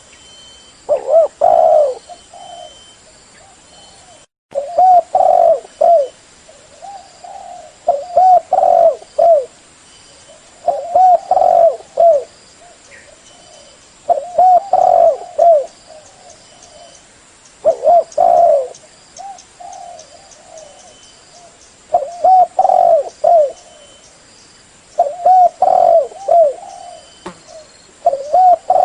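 Spotted dove (derkuku/tekukur) cooing loudly in repeated phrases. Each phrase is a run of several low, arched coos, coming about every three to four seconds.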